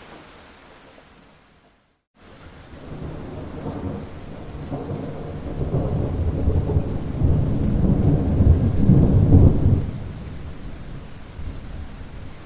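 Rain falling, with a brief dropout to silence about two seconds in; then a long roll of thunder builds, is loudest past the middle, and falls away about ten seconds in, leaving the rain.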